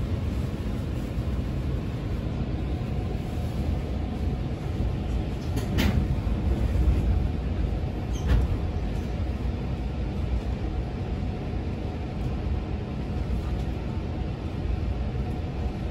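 Cabin noise inside a JR Chuo Main Line local electric train: a steady low rumble with a faint steady hum, and two brief knocks about six and eight seconds in.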